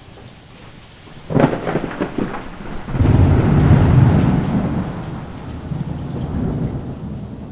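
Thunderstorm: steady rain, then a thunderclap about a second in, a sharp crack in several quick strokes followed by a long, heavy low rumble that slowly fades.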